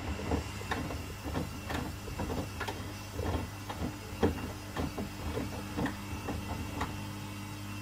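Front-loading washing machines running mid-wash: a steady motor hum, with irregular knocks and clunks as the load tumbles in the drum. The knocks stop about seven seconds in.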